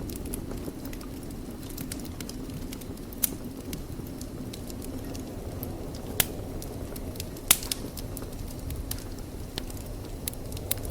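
Wood fire in a fireplace crackling, with irregular sharp pops over a steady low rumble of burning; the loudest pops come about six and seven and a half seconds in.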